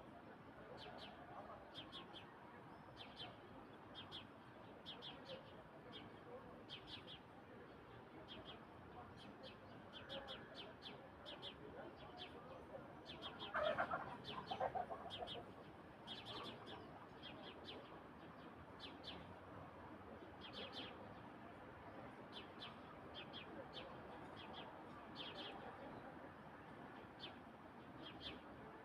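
Birds chirping at dusk: short, high chirps repeated every half second or so throughout, with one louder, lower call about halfway through.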